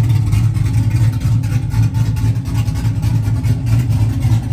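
Pickup truck engine running with a steady low drone.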